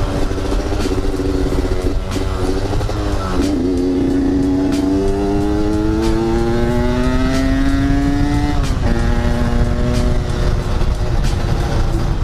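Yamaha RX-King's 135 cc two-stroke single-cylinder engine running while riding. Its note climbs steadily for about five seconds as the bike accelerates, then drops sharply and runs on at a steady lower pitch.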